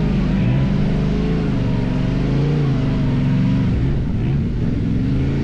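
Yamaha Ténéré 700's parallel-twin engine running while riding off-road, its pitch rising and falling with the throttle.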